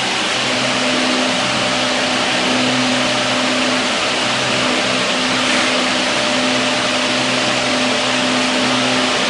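Machine running with a steady hum of a few constant tones under an even hiss, unchanging throughout.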